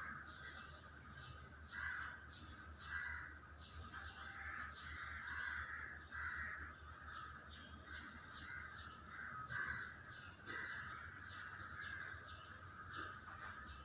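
Birds calling over and over in short, harsh, irregular bursts.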